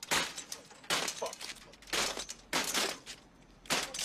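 A phone handset being smashed repeatedly against a glass street phone booth: about five loud cracking bangs, roughly a second apart.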